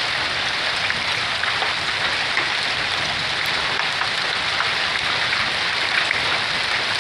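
Pea- to marble-sized hail falling with rain, a dense, steady patter of many small hailstones striking a truck and the ground.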